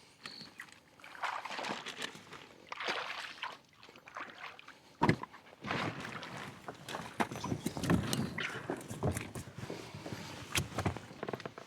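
Water sloshing and splashing with irregular handling and scraping noises, and one sharp knock about five seconds in.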